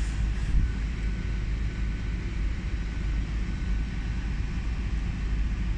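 Hitachi Class 800 train running on its underfloor diesel engines at low speed, a steady low rumble with a faint whine above it.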